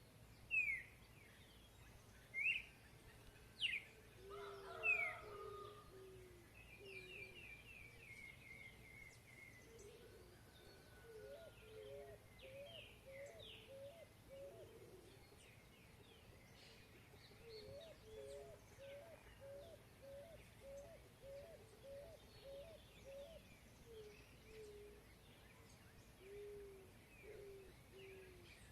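Several birds singing and calling together. Loud rising whistles come in the first five seconds, then a quick descending run of notes, with soft, low calls repeated underneath throughout.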